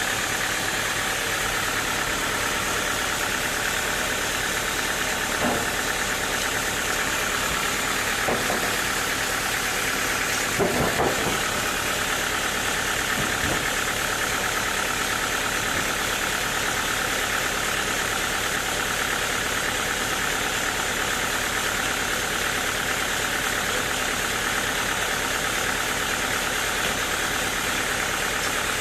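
Sawmill machinery running steadily with an engine-like hum, with a few brief knocks in the first half.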